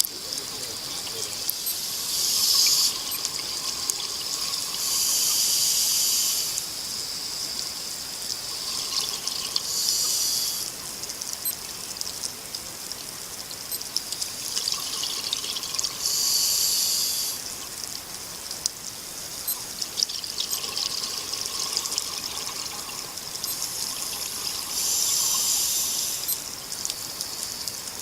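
Underwater sound of a scuba diver breathing through a regulator: a steady bubbling hiss, with about five louder bursts of exhaled bubbles spaced several seconds apart.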